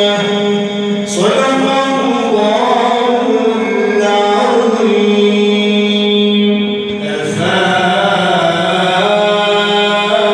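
A male reciter chanting the Quran in the melodic tajweed style, holding long, drawn-out notes. The phrase changes about a second in and again about seven seconds in.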